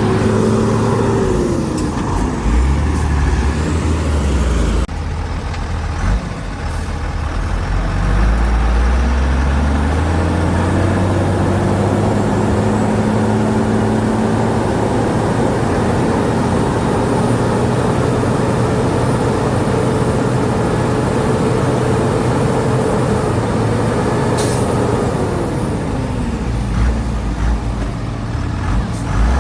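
Heavy diesel engine of a Shantui DH17C2 bulldozer working under load. Its whine drops early on, climbs over several seconds to a high steady pitch, holds there, then falls away again about 25 seconds in. A short high hiss is heard near the end.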